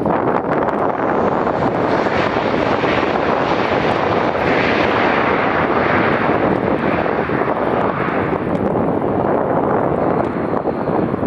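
Jet engines of an Airbus A320-family airliner coming in to land close by: a loud, steady rush that swells to its loudest around the middle and eases off near the end.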